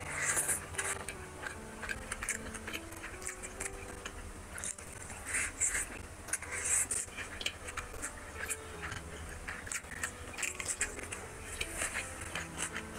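Chewing and mouth sounds of a person eating rice and curry by hand, with fingers mixing rice on a plate, in short bursts over background music with a slow melody.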